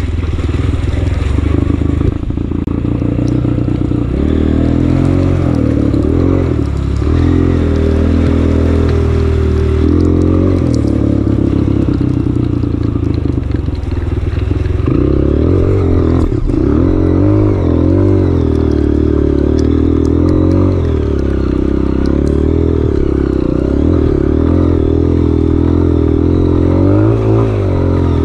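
Honda CRF230F trail bike's single-cylinder four-stroke engine running under the rider, its pitch rising and falling repeatedly with the throttle over rough terrain. A brief sharp knock about 16 seconds in.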